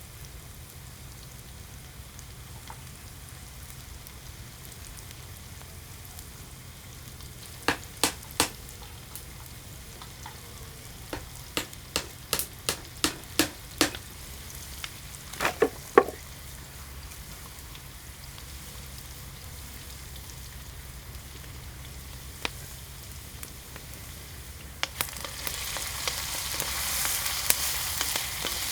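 Sharp knocks and taps of cooking utensils, with a quick run of them about halfway through and two louder knocks just after. Near the end, food starts sizzling as it fries in hot oil, over a steady low hum.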